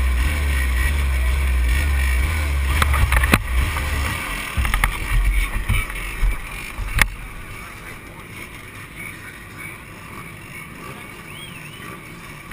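Motor vehicle engine noise mixed with a heavy low rumble of wind on the microphone for the first few seconds. After that it turns uneven and quieter, with a couple of sharp knocks.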